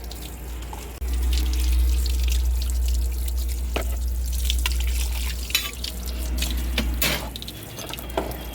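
Water running and splashing, as from a tap into a sink or vessel, with a low rumble that starts about a second in and scattered small knocks and clatters.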